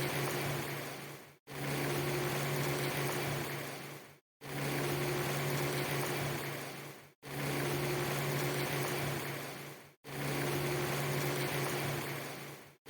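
A short ambience loop of steady hiss with a low hum under it, repeating about every three seconds. Each repeat fades out into a brief moment of silence before the next begins, so the loop is plainly not seamless.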